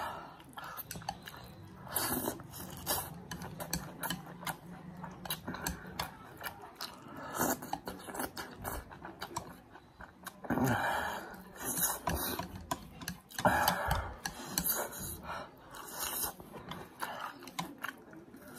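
Close-up eating sounds: chewing mouthfuls of spicy instant noodles and green chili, with many small clicks of chopsticks against the plate and several louder wet bursts.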